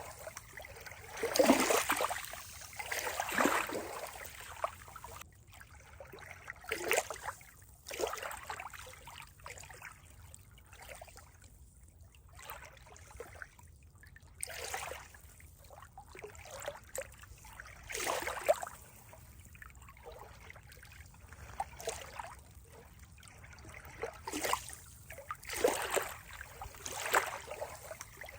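Water trickling and splashing in irregular surges every second or two, with a quieter, calmer stretch in the middle.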